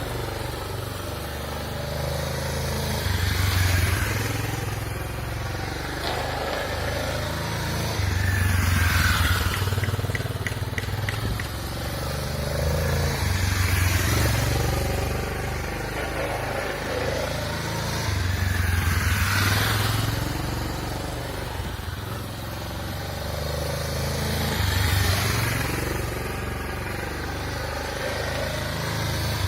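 Motorcycle engine being ridden hard around a short circuit. The note swells and eases in a repeating cycle about every five to six seconds as the rider accelerates and backs off.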